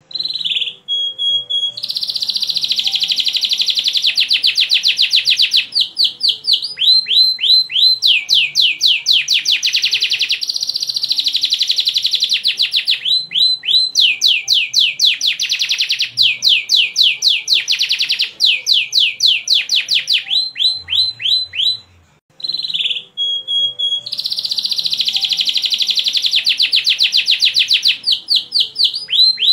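Canary singing: long, rapid trills alternating with runs of quick, falling whistled notes. There is a short break about two-thirds of the way through, after which the song begins again.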